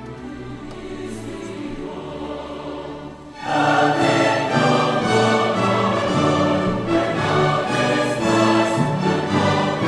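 Mixed choir singing sustained chords, soft at first, then swelling suddenly to a full, loud entry about three and a half seconds in.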